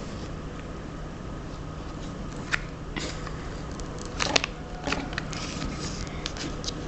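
A sheet of paper being folded by hand: a few short crinkles and rustles, the loudest about two thirds of the way through, over a steady low hum.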